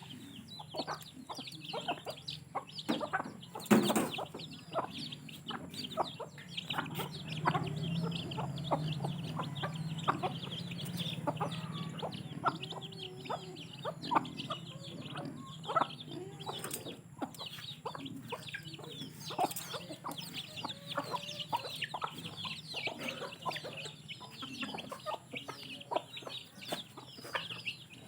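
Hens clucking while chicks keep up a rapid high peeping, with many small taps and clicks among them. A single sharp knock about four seconds in is the loudest sound.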